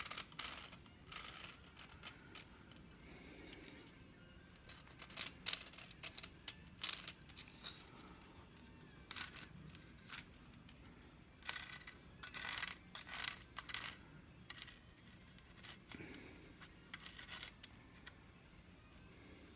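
Pen scratching on a wooden handle blank while the handle outline is drawn, in short irregular strokes with pauses between them.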